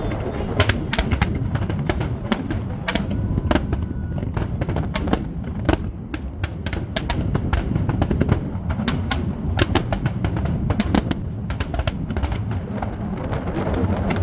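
Fireworks going off: a dense, irregular string of sharp bangs and crackles over a steady low background noise.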